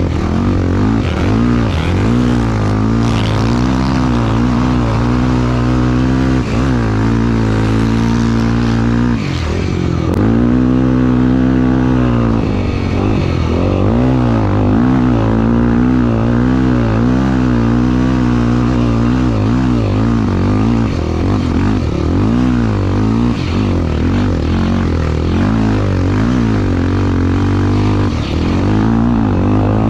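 Racing engine running hard, its pitch rising and falling again and again as it revs up and eases off through the run.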